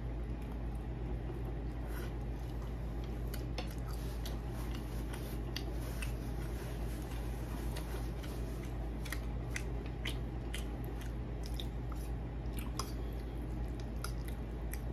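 Close-miked chewing of homemade pizza: many short, sharp clicks and wet mouth sounds scattered irregularly over a steady low hum.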